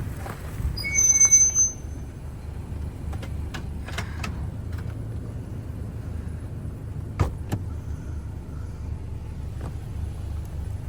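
Inside a vehicle rolling slowly: a steady low engine and road rumble, with a brief high-pitched tone about a second in and a few sharp knocks as it goes over the driveway.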